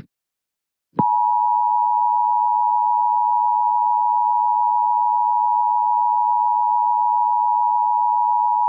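Emergency Alert System attention signal from a TV broadcast: a steady two-tone alert tone that starts about a second in and holds unbroken, heralding a National Weather Service tornado warning.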